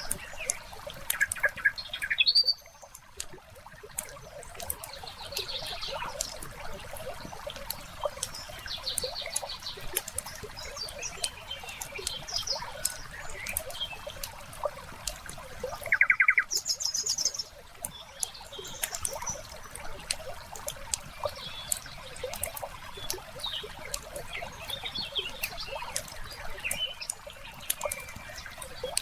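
Wood fire crackling with a steady run of small pops and snaps, layered with songbirds calling now and then; the loudest calls, trilled, come about two seconds in and about sixteen seconds in.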